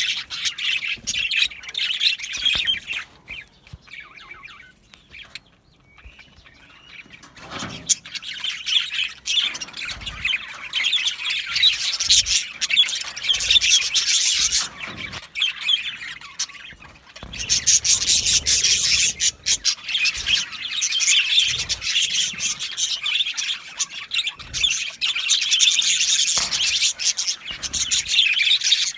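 A flock of budgerigars chattering and chirping together, a dense run of warbles and squawks, dropping to a quieter lull a few seconds in before building up again.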